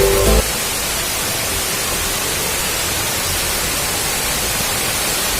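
Waterfall: a steady, even rush of falling water, filling the air with hiss from low to high. Background music cuts off about half a second in.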